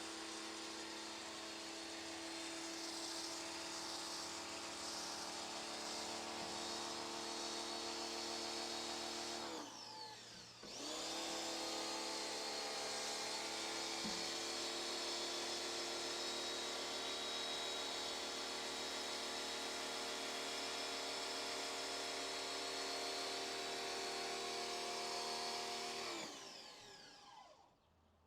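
Pressure washer motor running with a steady whine over the hiss of the spray. About nine seconds in, the motor winds down and stops, as when the trigger is let go. It starts again a second later, then winds down and stops near the end.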